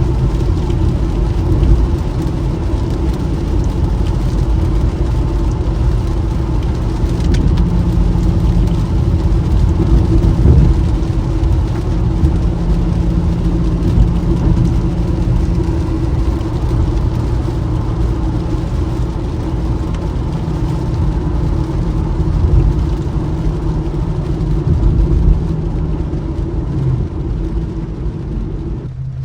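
Infiniti Q50 driving steadily on wet roads: a steady engine hum under tyre and road noise.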